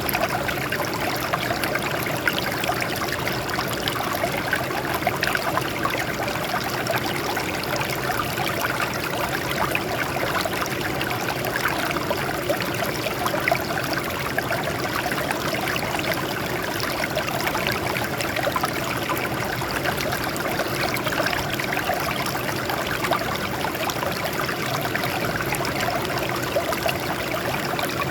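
Water flowing and trickling over rocks, a steady splashing that stays even throughout.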